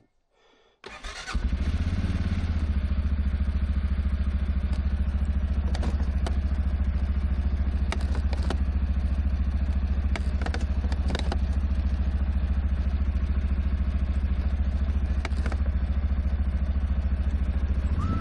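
Four-wheel ATV engine starting about a second in, then idling steadily with a fast, even beat and a few light clicks.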